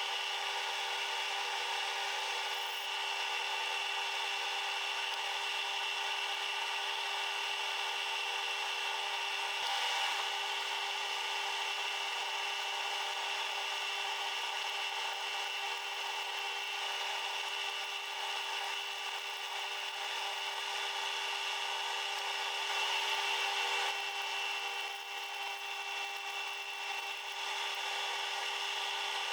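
A workshop machine tool runs at a steady pitch, with a rasping cutting and rubbing noise over its hum, typical of metal being cut or turned.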